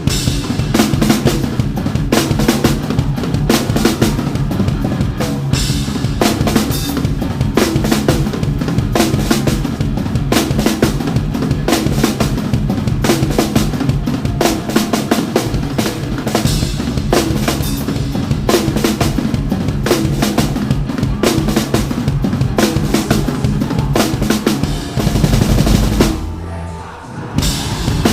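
Live rock band playing, heard close on the drum kit: fast, hard-hit bass drum, snare and cymbals over sustained low notes from the band. The band briefly drops away near the end, then the drums come back in.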